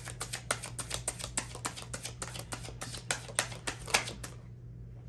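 A deck of tarot cards being shuffled by hand, a rapid run of card clicks and slaps that stops about four seconds in.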